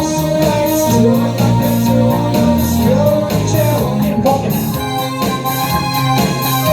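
Live rock band playing: drums keeping a steady beat under held keyboard chords and guitar, with some singing.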